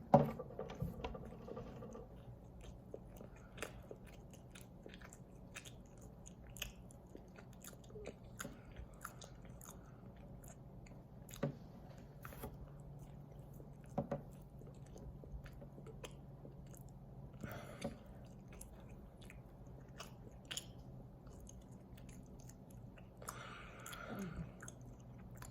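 A person biting into and chewing a soft oatmeal crumble strawberry snack bar: a louder burst right at the start, then faint chewing with scattered mouth clicks and a few sharper ticks.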